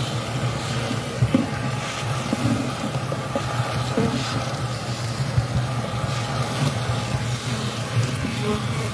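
A steady machine hum with a few short knocks and clicks scattered through it.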